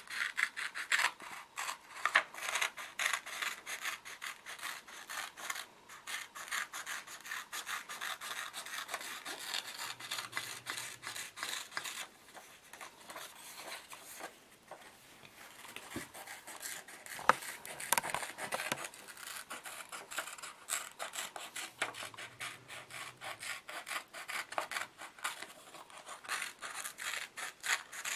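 Scissors cutting out a shape from construction paper: a quick run of repeated snips with paper rustling, easing off briefly midway.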